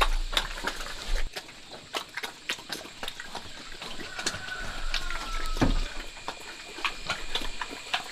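A pig eating wet feed: irregular wet smacking, slurping and chomping clicks.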